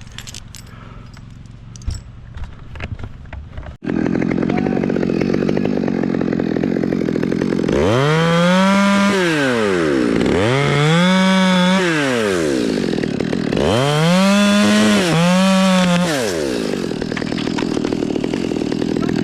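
A few faint clinks, then a chainsaw running loudly. It is revved up and back down four times in a row and then keeps running steadily.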